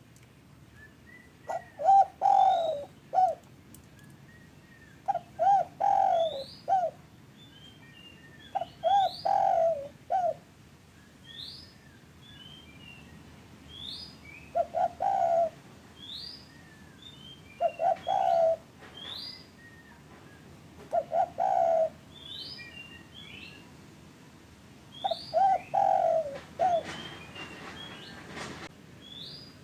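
Spotted dove cooing: about seven short phrases of several quick notes each, spaced a few seconds apart. Higher chirps of small birds come between them, with a brief rustle near the end.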